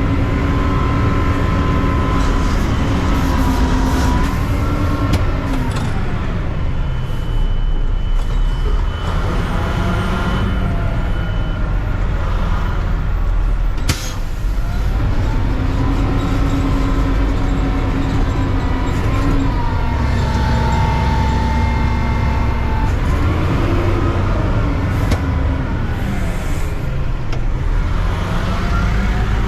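Mack CNG front-load garbage truck's engine running with a heavy low rumble, its pitch holding, dropping away and climbing again several times as it revs up and settles. A single sharp click about halfway through.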